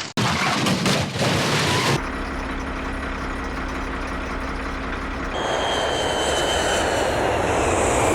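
Airplane engine noise: a steady low drone that changes about five seconds in to a louder jet-like rush with a high, slowly falling whine.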